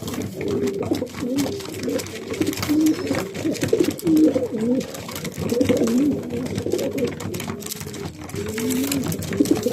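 Racing pigeons cooing, many coos overlapping one after another without a pause.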